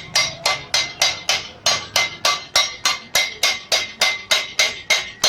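Hammer beating the steel sheet-metal panels of a bus body in denting work: a steady, even run of strikes, about three and a half a second, each with a short metallic ring.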